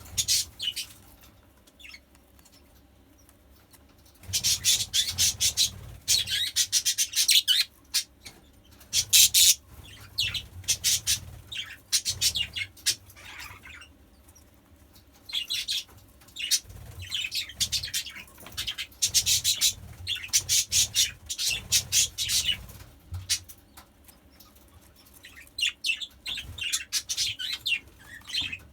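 Budgerigars chirping in rapid, high-pitched bouts of a few seconds each, with short quiet gaps between.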